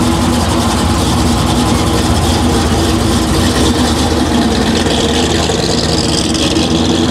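Ford 393 Windsor stroker V8 in a restomodded 1967 Mustang Fastback, breathing through headers and a 3-inch exhaust, running steadily at low revs as the car rolls slowly away.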